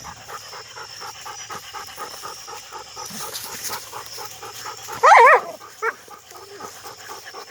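Dog panting rapidly and steadily, out of breath after a fight with a caught animal. About five seconds in comes one loud, short, wavering cry, with a brief second one just after.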